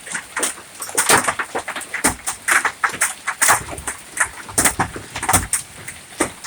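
Large hailstones, about ping-pong-ball size, hitting hard surfaces: sharp, irregular knocks and clatters, a few each second.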